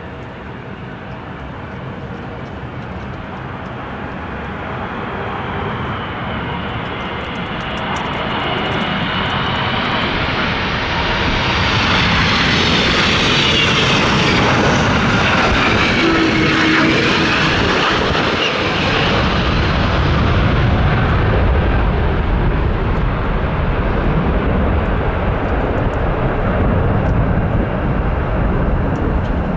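Jet airliner flying past close by: engine noise builds steadily, its high whine gliding down in pitch as it passes about halfway through, then a deep rumble that carries on to the end.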